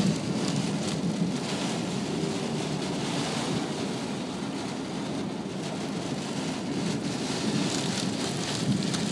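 Torrential rain beating steadily on a moving car, heard from inside the cabin, with road noise from the car underneath.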